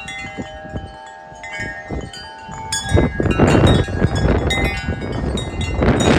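Wind chimes ringing and clanging in strong, gusty wind. The chimes ring on through a short lull, then a gust rushes in about three seconds in and sets them clanging harder.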